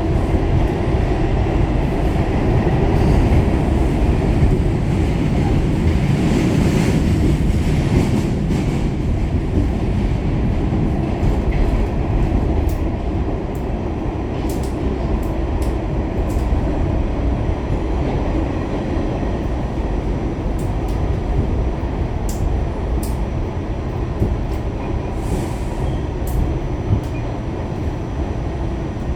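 Pullman Standard R46 subway car running along the track: a steady rumble of wheels on rail, with scattered sharp clicks.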